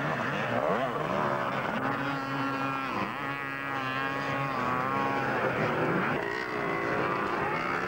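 Several vintage 250cc two-stroke motocross bikes racing, engines revving up and falling back as riders work the throttle and gears, their pitches overlapping.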